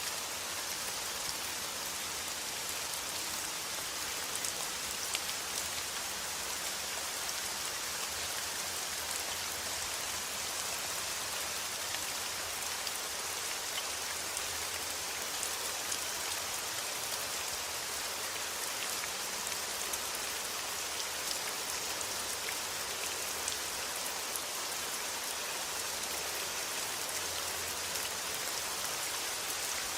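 Steady rain falling: an even, dense hiss with many individual drops ticking through it.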